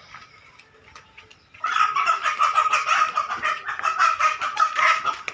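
A chicken clucking loudly in a rapid, unbroken run of calls. It starts about a second and a half in and lasts about three and a half seconds.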